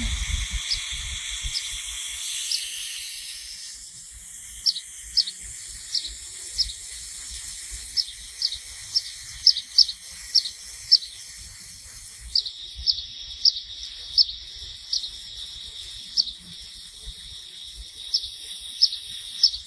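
A small bird chirping over and over in short high chirps, one or two a second and faster for a stretch after the middle. Under it runs a steady high insect drone, with a louder hiss in the first few seconds.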